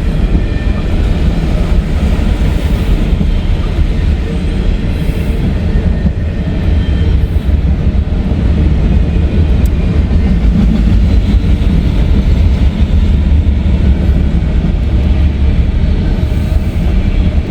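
CSX freight train's cars rolling past close by: a loud, steady rumble of wheels on the rails.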